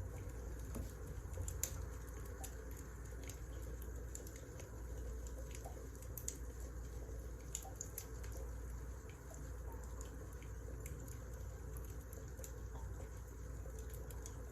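Wood fire crackling: scattered small pops and snaps at irregular moments over a steady low rumble.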